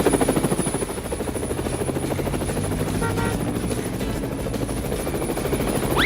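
Helicopter rotor sound effect from a cartoon: a steady, rapid, even chopping.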